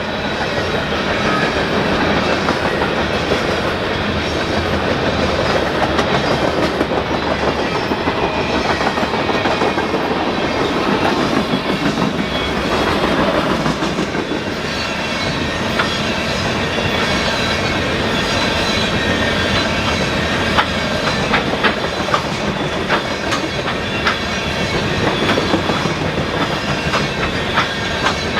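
Freight train rolling past, its wheels clattering steadily over the rail joints, with sharper clicks coming more often in the last several seconds.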